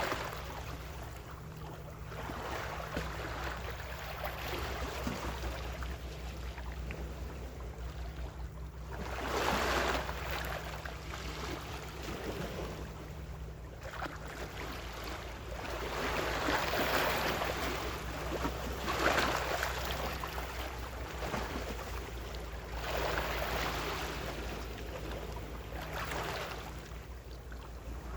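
Gentle ocean waves washing onto the shore, swelling and fading every few seconds. Under them runs a steady low hum, which fades out near the end.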